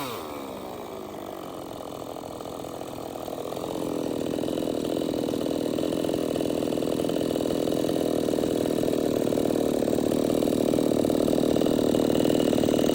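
Stihl 070 two-stroke chainsaw let off the throttle: its revs fall away at the start, then it idles, with a rougher, louder noise building from about four seconds in.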